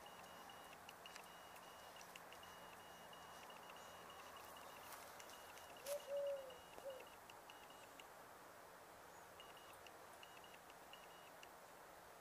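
Near silence with a faint, steady high-pitched chirring. About six seconds in comes a brief low bird call of three short notes.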